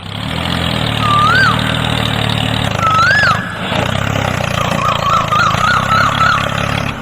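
A steady, engine-like drone with a whistled call that rises and falls, heard twice in the first half, then a quick warbling run of similar whistles.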